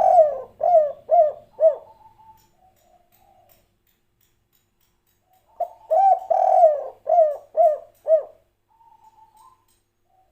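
Spotted dove (tekukur) cooing: a phrase of short hooting coos in the first two seconds, a pause, then a second phrase of about six coos from about five and a half seconds in, with soft trailing notes after each phrase.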